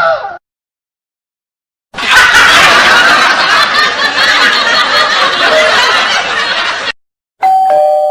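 Laugh-track sound effect: a crowd laughing, starting about two seconds in and lasting about five seconds before cutting off. Near the end a short electronic tone begins, stepping down in pitch.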